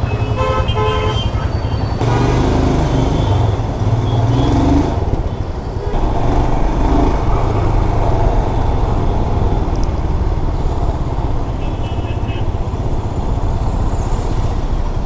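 Motorcycle running on the road through city traffic, with a steady heavy low rumble. Vehicle horns toot briefly near the start and again a few seconds before the end.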